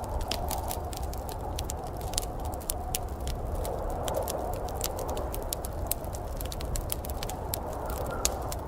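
Wood fire crackling in a fireplace: many quick, irregular pops and snaps over a steady hiss and a low rumble.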